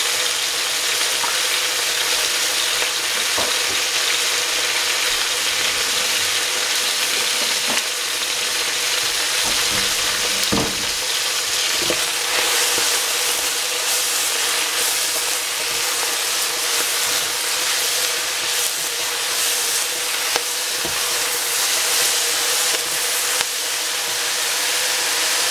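Baby cabbage sizzling in hot cooking oil in a stainless steel pot, a steady frying hiss. About ten seconds in, a utensil starts stirring the greens, knocking lightly against the pot a few times.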